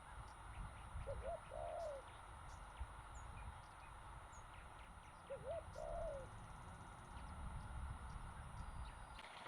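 A dove cooing twice, about four seconds apart, each call a short note followed by a longer one, over a steady low rumble.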